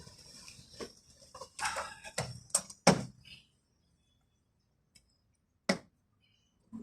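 A few scattered knocks and clicks of tools and parts being handled during work on a car door's manual window regulator, bunched in the first three seconds, then two sharp single clicks after a quiet stretch.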